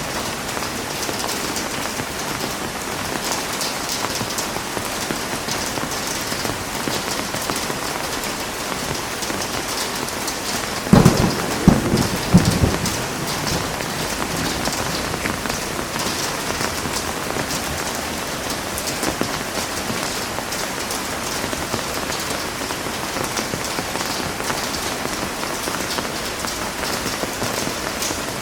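Heavy rain falling steadily, with a short, loud crack of thunder about eleven seconds in that breaks into several quick booms over a second or two.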